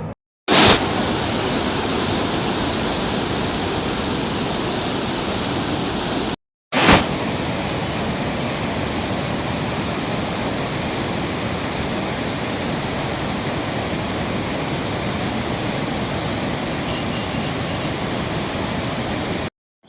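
Rushing floodwater: a steady, loud noise of fast-flowing water. It is cut into three stretches by brief silences, each stretch opening with a short louder burst.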